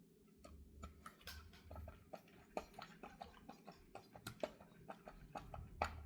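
Faint, irregular metal clicks and ticks, several a second, of small screws being driven back into an HEI distributor cap by hand with a screwdriver.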